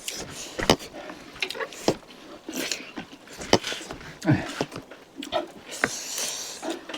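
Close-up eating noises: chewing and lip-smacking with many sharp, irregular clicks and short hissy slurps.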